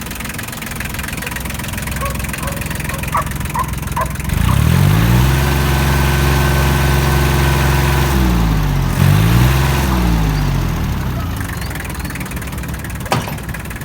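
Kubota L2402DT tractor's three-cylinder diesel engine idling, then revved up about four seconds in and held. It drops briefly, revs up again and settles back to idle, with a sharp click near the end.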